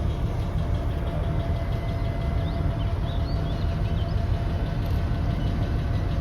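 MÁV M62 diesel locomotive's two-stroke V12 diesel engine running steadily with a deep rumble and a thin steady whine above it.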